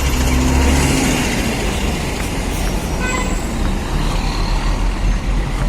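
City street traffic, with a large vehicle's engine running close by for about the first second, then a steady traffic noise.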